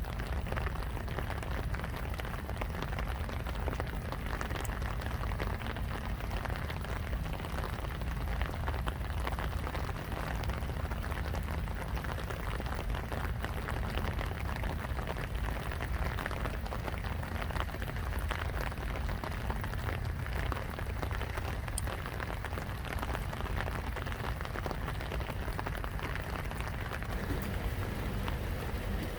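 Steady rain falling, heard as an even hiss made of many small drop ticks, over a constant low rumble.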